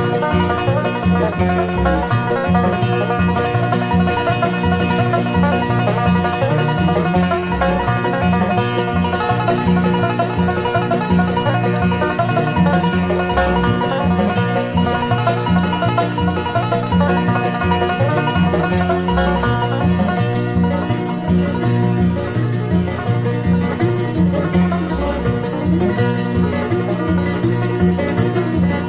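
Bluegrass band playing an instrumental passage: fast banjo picking with guitar and mandolin over a steady, evenly pulsing bass line.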